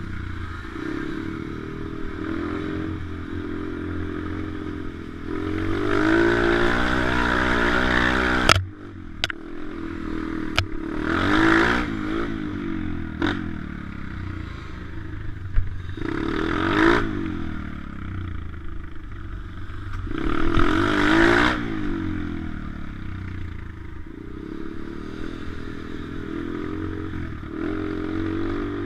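Pit bike engine running hard while riding, revving up and dropping back about four times, once long and three times briefly. Several sharp knocks and clatters come through in the middle stretch.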